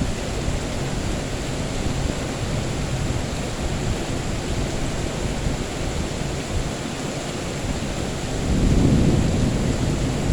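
Steady heavy rain, with a low rumble of thunder swelling up about eight seconds in.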